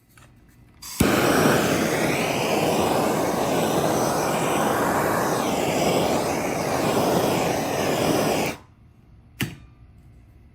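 A woodworking power tool running loudly and steadily for about seven seconds, switching on suddenly about a second in and shutting off, followed by a single sharp knock.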